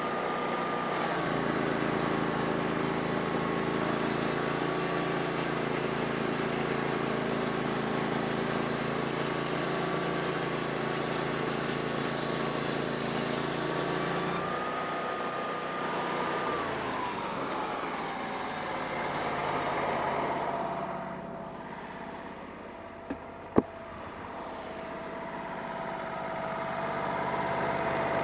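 Wood-Mizer sawmill's engine running steadily. About fifteen seconds in its pitch drops and it runs quieter, with two sharp clicks around twenty-three seconds in, before the level builds again near the end.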